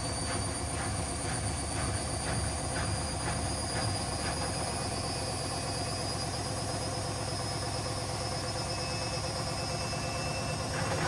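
Washing machine on its spin cycle with sneakers in the drum: a steady drone and high whine, with a regular knock about two or three times a second for the first few seconds that then fades out. A higher whine rises near the end.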